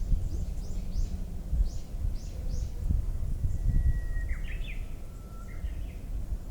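Birdsong over a steady low rumble: a quick run of about seven short, high, falling chirps in the first couple of seconds, then a long held whistle followed by a fast phrase of higher notes, in the pattern of a Japanese bush warbler (uguisu) song, with a second lower held note near the end.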